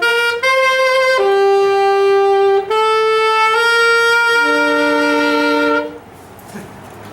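Saxophones and other wind instruments playing a slow melody of held notes. It closes on a sustained chord that cuts off about six seconds in.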